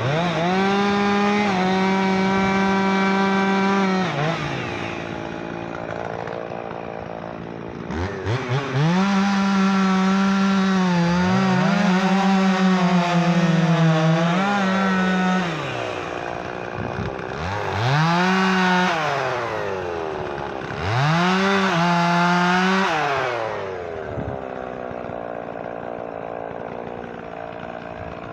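Two-stroke chainsaw revving to full throttle four times, the longest run lasting about seven seconds, and dropping back to idle in between, as it cuts sawmill butt ends into firewood.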